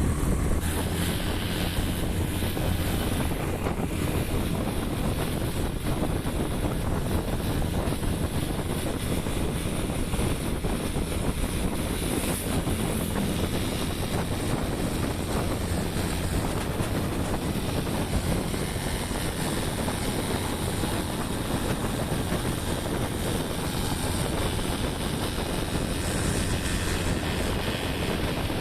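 Steady engine and road noise from a moving motorbike, with wind buffeting the microphone.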